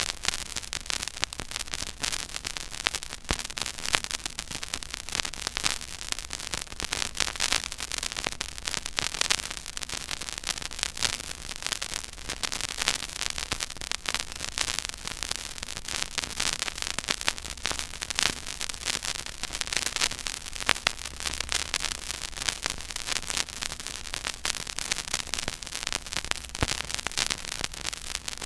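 Stylus playing the silent groove of a 12-inch vinyl record at 33⅓ rpm: continuous surface crackle, dense fine clicks and pops over a steady hiss, with a faint low hum.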